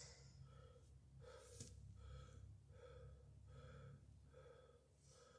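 Near silence, with a faint tone pulsing a little under twice a second.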